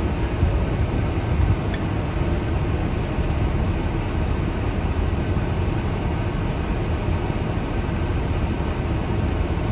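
Steady low rumble of a car's engine running, heard from inside the cabin.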